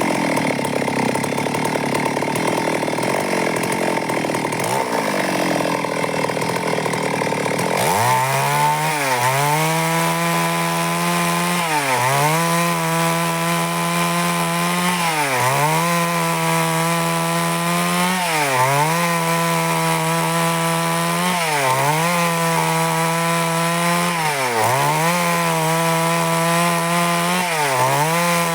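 Stihl MS 382 two-stroke chainsaw running at high revs, cutting lengthwise through wood to mill boards. For the first eight seconds the sound is rougher and noisier. After that the engine note holds steady, dipping briefly in pitch about every three seconds.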